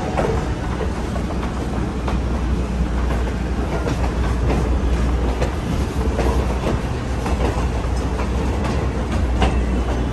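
Passenger coach of a steam-hauled excursion train rolling along the track: a steady low rumble with frequent sharp clicks and clacks from the wheels and running gear.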